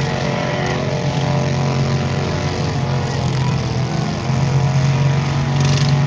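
Tractor engine running steadily at high revs with a continuous drone, which dips briefly a little past halfway and then comes back slightly louder.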